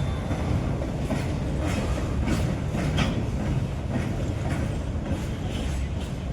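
Freight train of BCNA covered wagons rolling past, a steady rumble with the wheels clicking over rail joints about twice a second.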